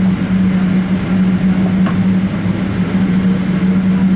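Steady cabin noise of a Boeing 777-200ER taxiing after landing: a constant hum with one strong steady low tone, engines and air conditioning running.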